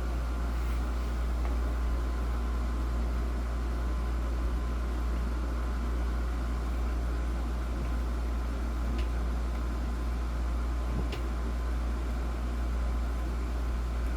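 Steady low mechanical hum with a hiss over it, like a room appliance running, with a few faint small clicks in the second half.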